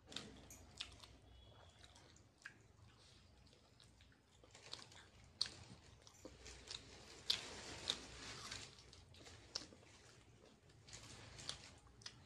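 A person biting and chewing fried chicken lollipop close to the microphone, with irregular sharp clicks of mouth and food.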